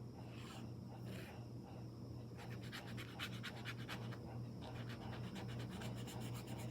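Close-miked ASMR scratching: a few soft strokes, then from about two and a half seconds in a fast run of sharp scratches, several a second, over a steady low electrical hum.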